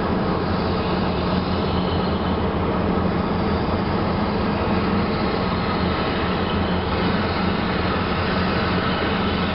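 Train running along the track: a steady rumble with an even low hum, with no distinct clicks or changes.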